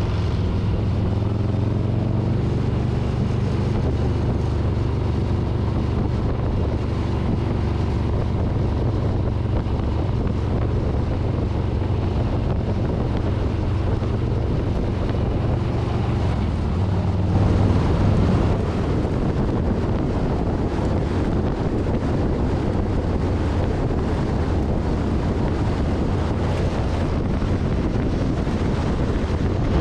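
2024 Harley-Davidson Street Bob's V-twin engine running steadily at road speed, with heavy wind noise on the handlebar-mounted microphone. About seventeen seconds in, the engine note shifts and gets louder for a moment.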